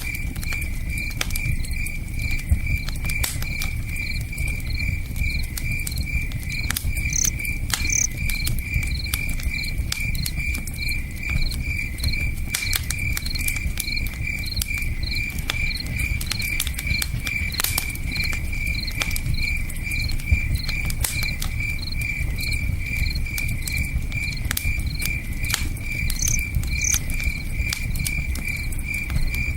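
Crickets chirping in a steady, even rhythm over the scattered pops and crackles of a campfire, with a low rush of river water underneath.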